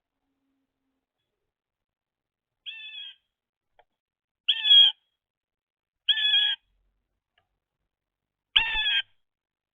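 Blue jay calling: four harsh, nasal, cat-like calls, each about half a second long, spaced a second and a half to two seconds apart.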